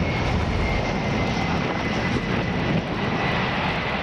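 Jet aircraft engine running steadily: an even rush of noise with a thin high whine that falls slowly in pitch.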